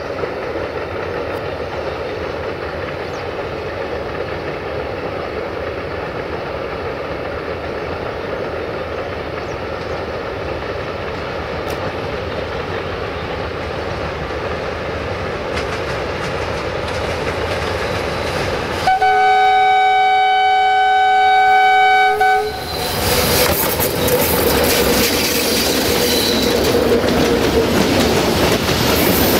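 Freight train hauled by two 060-DA (LDE2100) Sulzer diesel-electric locomotives approaching with a steady rumble. About two-thirds of the way through, the locomotive sounds one long horn chord of about three and a half seconds. Then the loaded tank wagons roll past close by, wheels clattering over the rail joints.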